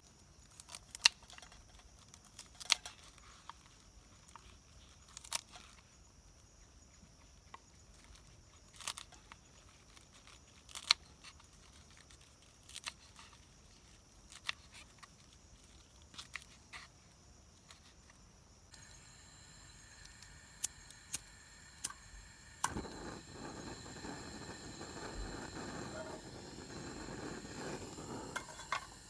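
Camp cooking: scattered sharp knocks and clicks of utensils and cookware, a second or two apart. About two-thirds of the way through, a rushing hiss starts and swells for several seconds, then stops near the end.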